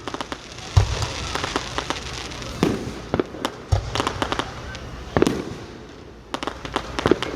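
Fireworks going off in quick succession: sharp bangs and crackles come in clusters, with two deeper booms, one about a second in and one near four seconds.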